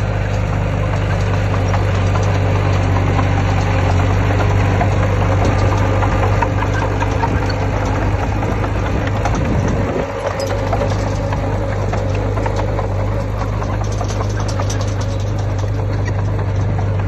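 Heavy diesel engine of earthmoving machinery running steadily, with a deep, even hum and some rattle. The sound dips briefly about ten seconds in.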